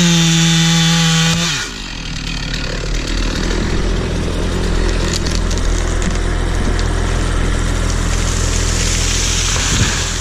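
Stihl 046 two-stroke chainsaw held at full throttle finishing a cut, then the throttle is released about a second and a half in and the engine drops to a steady idle.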